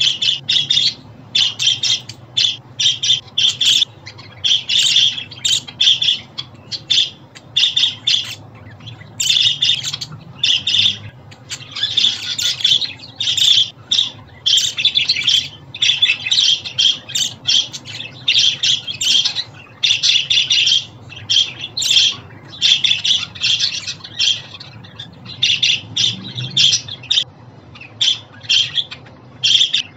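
Budgerigars chattering and squawking, a continuous run of quick, high chirps and warbles with short gaps.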